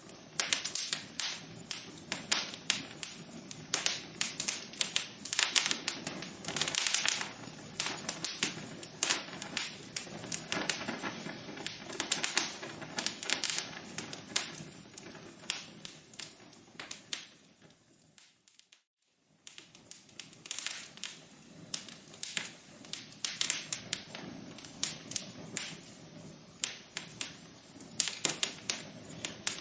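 Fire burning in a fireplace, crackling with a dense run of sharp pops and snaps. About two-thirds of the way through, the crackling fades out to near silence for a second or so, then starts again suddenly.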